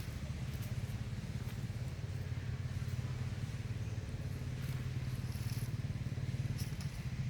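An engine running steadily, a low even hum with a fast pulse.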